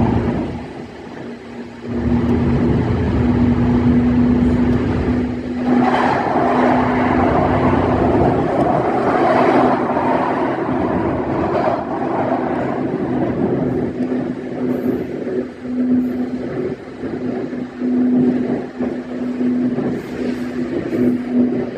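E131 series electric train running along the track: a steady hum under a rumbling rail noise that swells about two seconds in and grows brighter for a while before easing.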